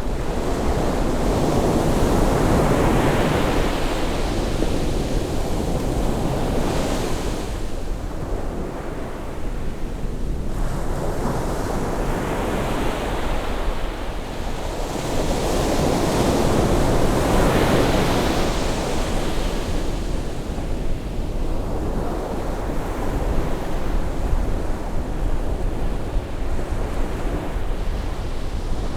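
Ocean waves breaking and washing in on a rising tide, the surf swelling and ebbing in slow surges, with wind on the microphone.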